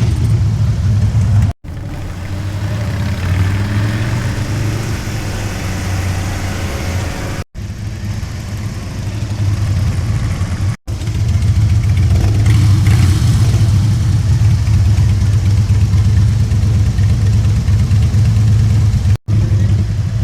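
Motorcycle engine running, a steady low drone with some wind noise; the sound cuts out abruptly for a moment four times.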